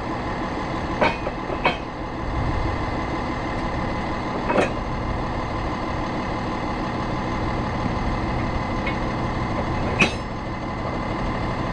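Tow truck's engine running steadily, with four sharp clanks from the steel underlift and axle-fork gear, the loudest near the end.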